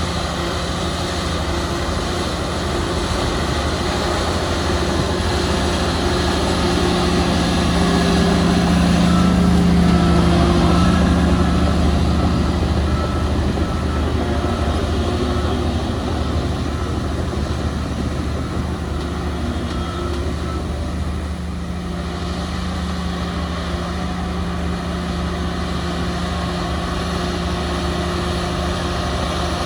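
Heavy diesel construction machinery running steadily, growing louder for a few seconds about a third of the way in and then easing back.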